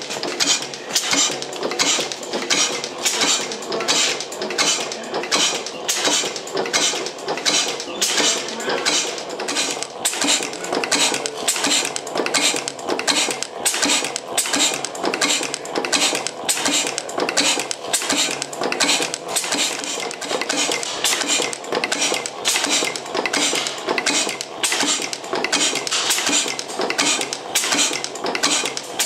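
1896 Gardner size 2 hot tube gas engine running, with a regular metallic clatter at about one and a half beats a second.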